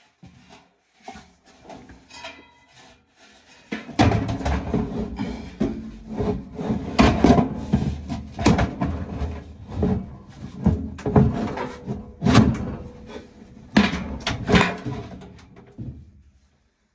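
Irregular rubbing, scraping and knocking of furnace parts being handled and fitted by hand, faint at first and much louder from about four seconds in.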